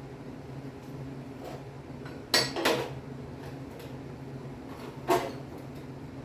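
Sharp metallic clanks of steel tools or parts being handled: two in quick succession a little over two seconds in and one more about five seconds in, over a steady low hum.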